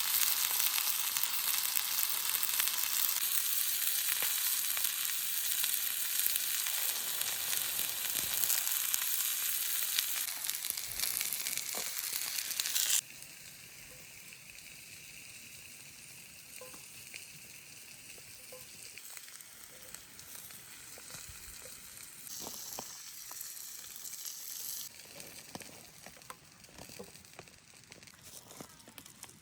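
Stuffed chickens sizzling on a red-hot stone, a dense steady hiss. About 13 seconds in it drops suddenly to a much quieter sizzle with scattered small crackles.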